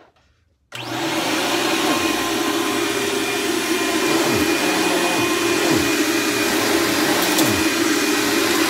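Dirt Devil Ultra Vision Turbo upright vacuum switched on about a second in and running steadily, with a few brief dips in pitch. Its belt is worn; the owner says it needs replacing.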